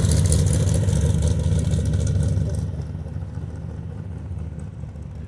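A parade car's engine driving close past, loud with a deep rumble and tyre hiss, then fading away about two and a half seconds in as it moves off.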